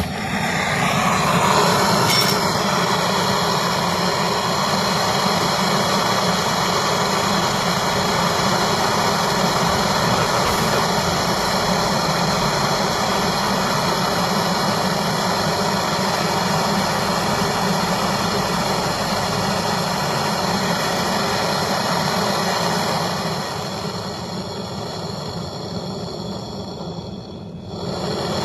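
Gas brazing torch flame hissing steadily while a fridge's refrigerant pipe is brazed at the filter drier. It starts abruptly and turns somewhat quieter about 23 s in.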